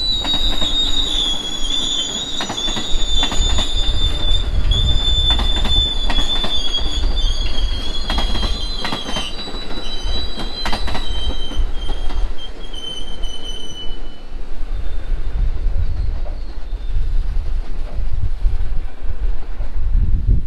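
Slow-moving subway continuous welded rail work train: a steady low rumble under a high metallic squeal that fades out about two-thirds of the way through. Pairs of sharp clicks, typical of wheels crossing rail joints, come several times in the first half.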